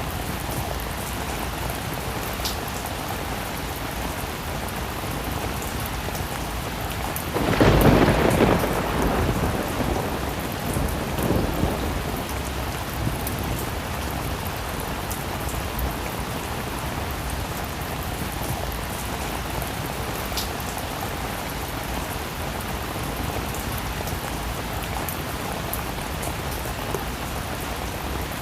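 Steady heavy rain, with a clap of thunder about seven seconds in that rumbles away over the next few seconds.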